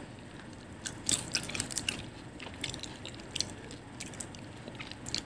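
A person chewing a mouthful of fried banana-and-chocolate spring roll (pisang coklat lumpia), with irregular mouth clicks a few times a second.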